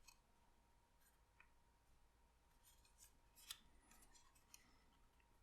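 Near silence, broken by a few faint crisp ticks and light rustles of stiff paper pieces being handled and pressed together during gluing. The clearest tick comes about three and a half seconds in.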